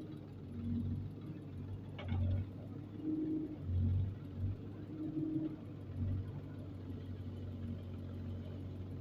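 A vehicle engine running with a low hum that swells and eases several times over the first six seconds, then settles to a steady run. There is a short sharp knock about two seconds in.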